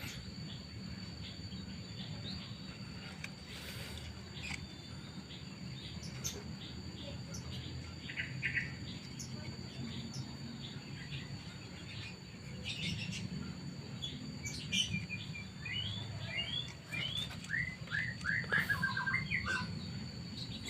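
Birds chirping outdoors, with a run of quick falling chirps in the second half. A steady high insect-like whine and a low rumble run underneath.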